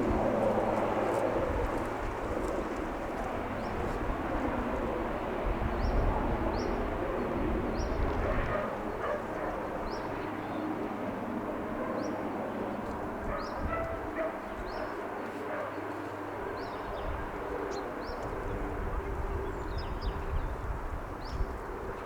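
Early-morning city ambience: a steady hum of distant traffic with dogs barking. From about five seconds in, a bird gives short high chirps about once a second.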